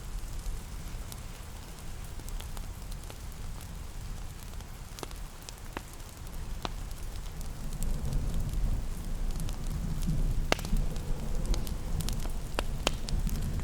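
Fireplace crackling, with scattered sharp pops over a steady low rumble, mixed with a soft hiss of rain. The low rumble swells louder about halfway through.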